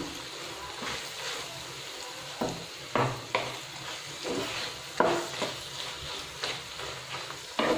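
Coarsely ground chana dal paste frying in ghee in a kadhai, roasting on a very low flame with a faint steady sizzle. A spatula stirs it, scraping and knocking against the pan at irregular moments.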